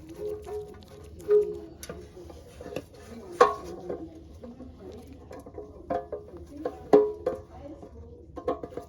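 Irregular metallic clinks and taps of tools and small parts being handled, a few ringing briefly, the loudest about three and a half seconds and seven seconds in.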